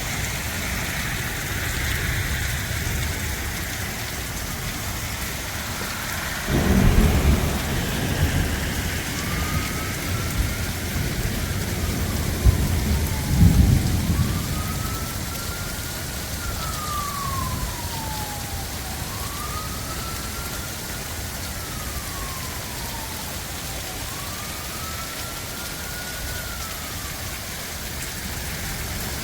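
Heavy rain falling steadily, with two low rumbles of thunder about 7 and 13 seconds in. From about 9 seconds a siren wails in the distance, rising and falling about every three seconds.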